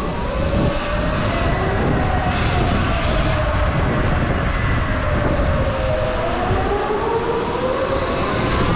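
Sur Ron electric dirt bike motor whining while riding, its pitch sliding up and down with speed, over heavy wind rumble on the microphone.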